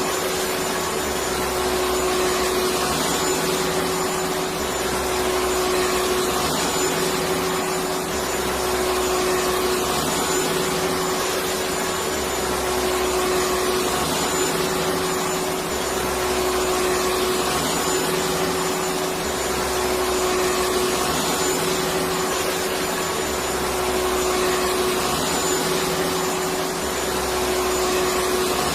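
Electric vacuum cleaner running continuously with a steady hum and an even rush of noise.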